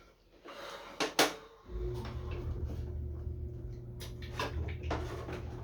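Knocks and clicks of the lid and compartments of an old metal sewing machine being handled and opened, with a sharp click about a second in and more a few seconds later. A steady low hum starts suddenly under them just before 2 seconds in and keeps going.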